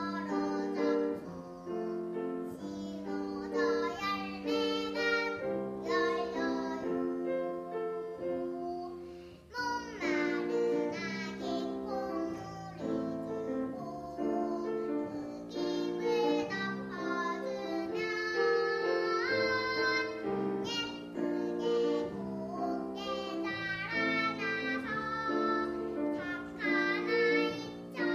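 A young child singing a Korean children's song (dongyo) over steady instrumental accompaniment, phrase after phrase, with a short breath pause about nine and a half seconds in.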